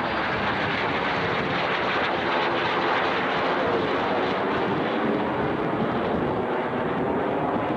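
Jet Provost T Mk 4 jet trainer's turbojet engine running loud and steady as the aircraft flies its display, with a tone that falls in pitch about four seconds in.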